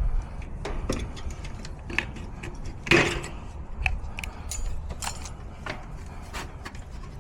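Scattered metallic clicks and clinks of tools and hardware being handled while a metal strap is fastened over an air-conditioner capacitor, with a louder knock about three seconds in.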